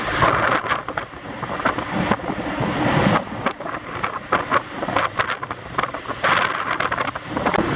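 Wind buffeting the microphone on a moving ferry, an uneven, gusting rush with rapid knocks and flutters.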